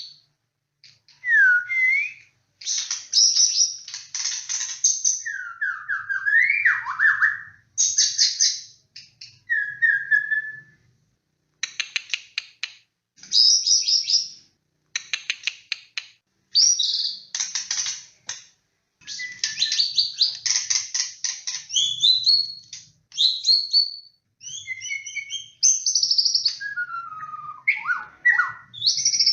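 White-rumped shama (murai batu) singing a loud, varied song. Rapid runs of sharp high notes alternate with whistled phrases that slide down and up, in bursts of a second or two with short pauses between.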